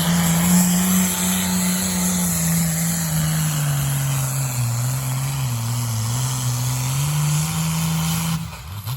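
Engine of a pulling vehicle running hard at high revs, its pitch sagging in the middle as it works under load and then climbing back, before the sound cuts off suddenly near the end.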